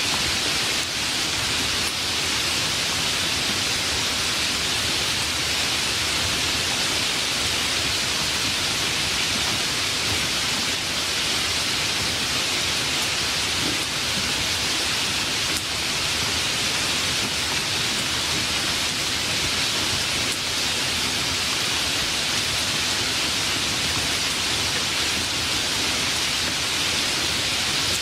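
Steady heavy rainfall, an even hiss of rain with no distinct thunderclaps.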